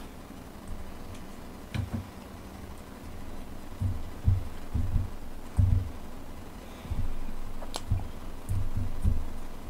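Close-mic chewing while eating rice, kimchi and grilled fish: a run of dull, uneven low thumps from mouth and jaw. Two light clicks of chopsticks or a spoon against a stainless steel rice bowl sound near 2 s and near 8 s.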